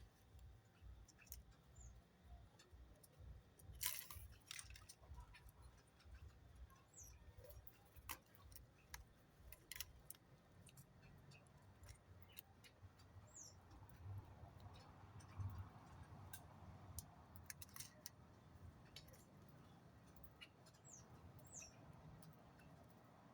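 Near silence with scattered faint clicks and a few brief, high, falling chirps from small birds.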